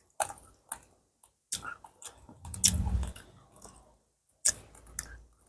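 Raw, very hard corn rice (dry cracked corn kernels) being bitten and chewed in sharp, irregular crunches, with a denser run of chewing in the middle.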